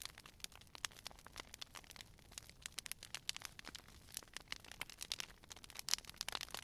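Wood fire crackling: irregular sharp pops and snaps over a faint low hiss, with one louder pop about six seconds in.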